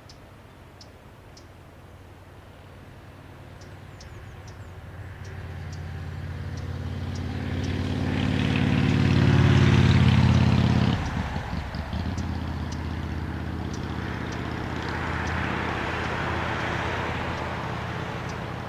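Electric train approaching and passing close by on the line. Its low hum builds to its loudest and drops off suddenly as the front of the train passes, then the steady rolling noise of the train continues.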